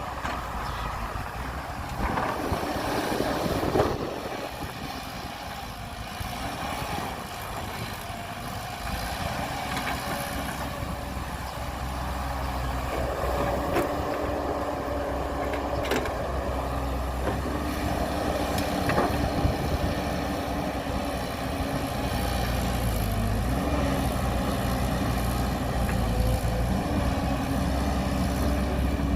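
Heavy diesel earth-moving machinery running steadily, with a few sharp knocks. About halfway through a steady whine joins in, and the engine sound grows louder toward the end.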